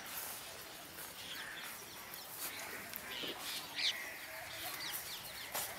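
Quiet outdoor background with a few faint, short bird calls scattered through it.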